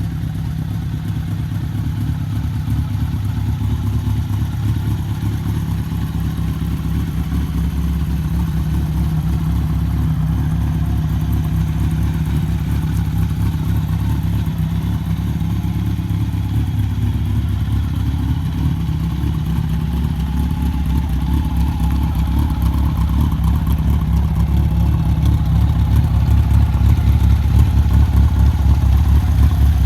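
Honda Seven Fifty scrambler's air-cooled inline-four engine running steadily, growing gradually louder through the stretch.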